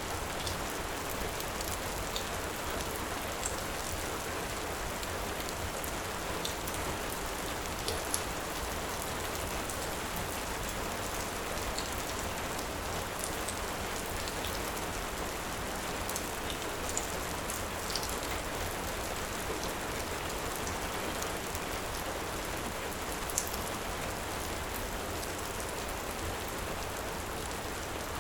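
Steady heavy rain, an even hiss, with scattered faint sharp crackles from a wood fire, a few of them standing out.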